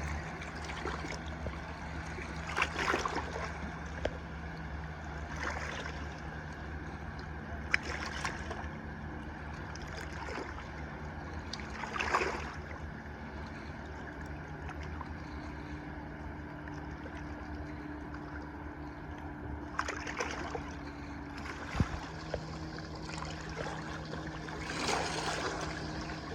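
A boat's engine running steadily with water sloshing, broken by a few brief louder noises.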